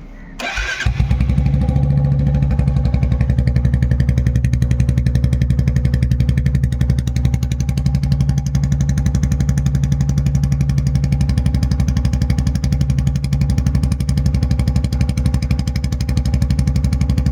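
Royal Enfield motorcycle cold-started: the engine turns over briefly and catches about a second in, then idles steadily with a fast, even exhaust beat. It is breathing through an aftermarket exhaust, a full L-bend header pipe and a new silencer.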